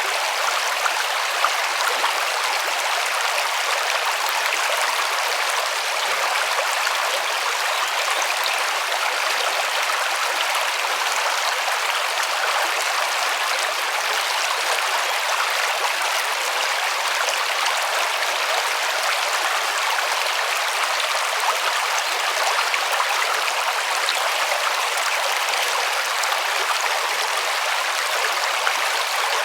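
River water flowing and splashing over rocks, a steady rushing with no change in level.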